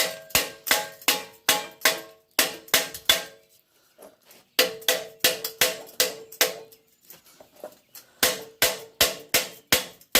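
Chipping hammer knocking welding slag off fresh welds on a steel hand truck: rapid ringing metal taps, about four a second, in three runs with short pauses between.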